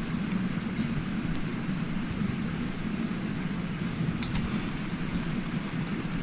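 Campfire crackling with sharp, irregular pops, over the steady rushing of a mountain stream.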